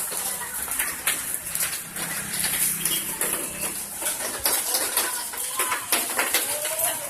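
Hail falling, a dense run of sharp hits and knocks from hailstones over a steady rushing noise.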